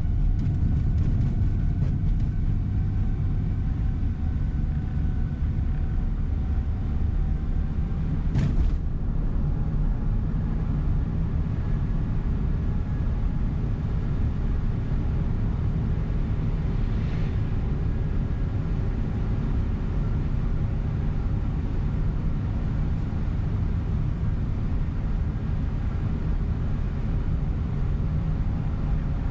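Steady engine and road rumble inside a sightseeing coach bus under way, with a single sharp knock about eight and a half seconds in.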